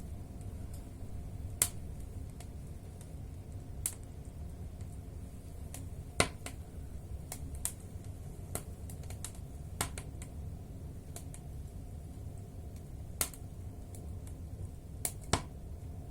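Wood fire burning in a fireplace: firewood crackling and popping at irregular intervals, with a few much louder pops standing out, about one and a half seconds in, past six seconds, and near the end.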